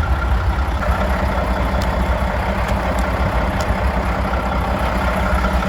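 Mack snowplow truck's diesel engine idling: a steady low rumble with a faint steady whine above it and a few light ticks.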